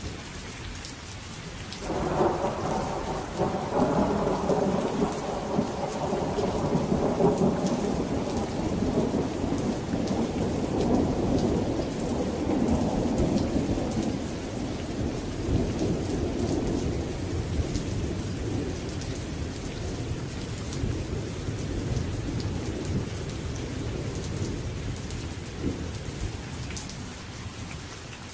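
Steady rain with a long roll of thunder: the rumble comes in suddenly about two seconds in, peaks a few seconds later and slowly fades away under the rain.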